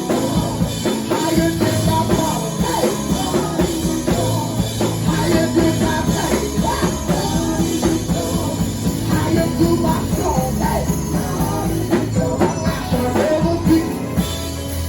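Music: a band with a drum kit playing while voices sing.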